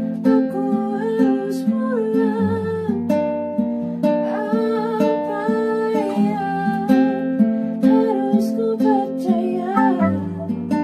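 Acoustic guitar playing chords under a singing voice that carries a wavering melody, a song performed live. A low bass note comes in about two and a half seconds in and again near the end.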